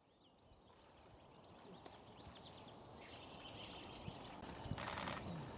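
Small birds chirping and calling, many short high calls that come thicker from about three seconds in, over faint outdoor background noise, with a brief rustling burst near the end.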